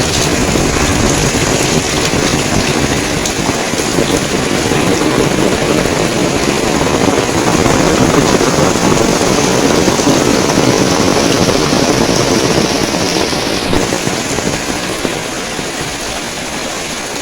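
Heavy rain falling as a loud, steady wash of noise, swelling a little in the middle and easing slightly near the end.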